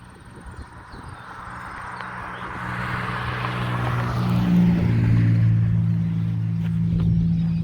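An engine approaching and growing louder over several seconds, with a steady low hum that keeps on after the rush of noise eases.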